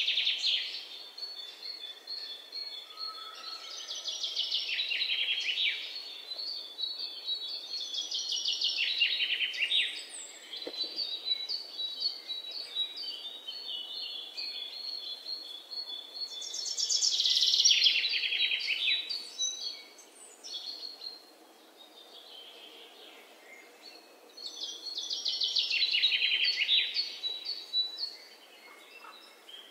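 Birds chirping and trilling in repeated bouts, some louder than others, over a faint steady hiss.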